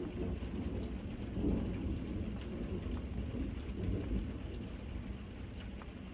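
Thunder rolling over steady rain. The rumble swells about a second and a half in, swells again around four seconds, then eases off.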